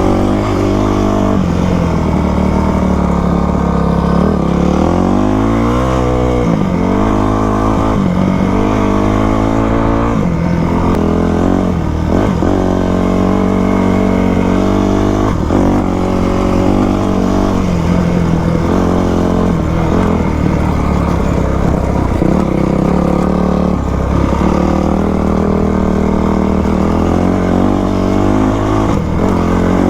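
2000 Yamaha YZ250 two-stroke single-cylinder dirt bike engine running under way, its pitch rising and falling again and again as the throttle is opened and closed on rough ground.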